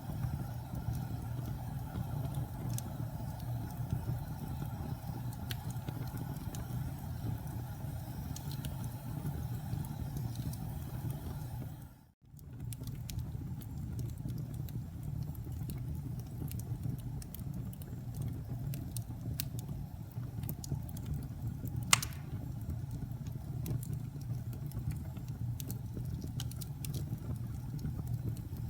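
Wood fire burning: a steady low rumble of flames with scattered small crackles and pops of the burning wood, and one sharp, loud pop about three-quarters of the way through. The sound cuts out for a moment near the middle.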